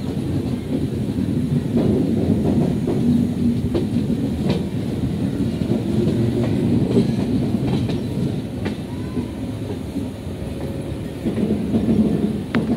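Express train running, heard from aboard: a steady rumble of wheels on rail with clickety-clack and a few sharp clicks from the rail joints.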